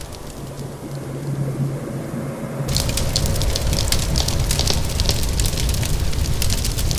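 Wood fire crackling in a fireplace over a steady rain hiss. For the first few seconds the sound is muffled and the crackles nearly stop, then sharp crackling comes back in full about three seconds in and continues.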